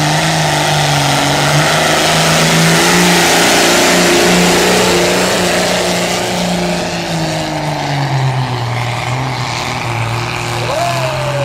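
John Deere pulling tractor's engine running hard under load while hauling the weight sled down the track. Its note holds steady, then drops lower about eight seconds in as the engine lugs down under the load.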